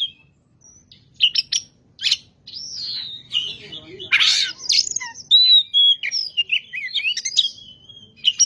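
Oriental magpie-robin (kacer) in full song: a fast, varied run of clear whistles, chirps and short trills. It begins after a brief pause about a second in.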